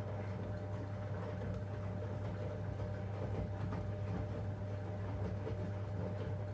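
Zanussi washing machine running a 90-degree boil wash: a steady low hum with a fainter steady higher tone and faint scattered clicks.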